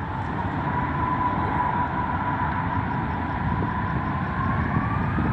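Boeing 747-400 jet engines, Rolls-Royce RB211s, on the takeoff roll: a steady roar of engine noise growing louder, with a whine that climbs in pitch near the end.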